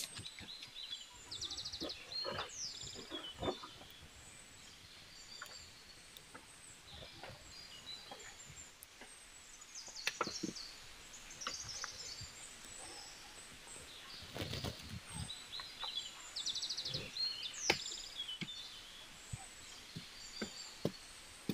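Wild birds calling in the forest: short high chirps and whistles with a couple of fast trills, one near the start and one near the end. Scattered light clicks and knocks come throughout, bunched about two-thirds of the way through.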